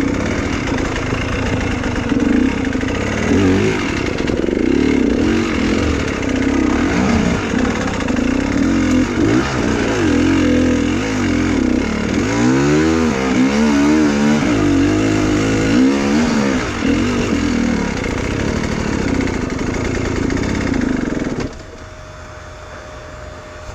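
Enduro motorcycle engine revving hard, its pitch rising and falling with the throttle. About two seconds before the end the engine sound stops abruptly, leaving a low steady hum.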